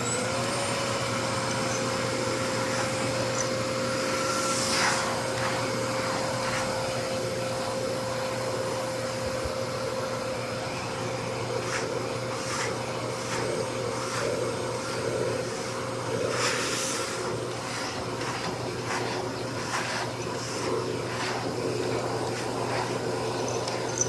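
Mitsubishi vacuum cleaner running steadily, a constant whine over the rush of suction, with brief louder rushes of air about five seconds in and again around seventeen seconds, as the nozzle's airflow changes.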